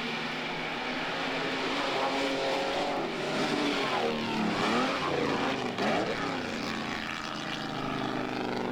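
Vintage Mercedes-Benz Grand Prix car engines running at speed, their pitch rising and falling as they pass, with several engine notes sweeping across each other around the middle.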